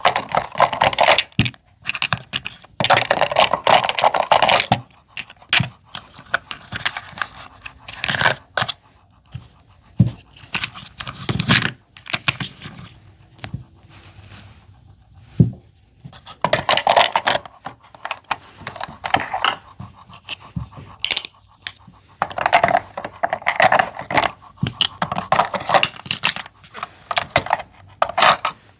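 Small plastic Mini Brands miniatures being handled: sharp clicks and taps as pieces knock together and are set down, with several stretches of rustling and scraping in between.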